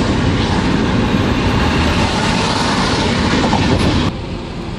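Loud rumbling road noise of a moving car, heard from inside, dropping off abruptly about four seconds in.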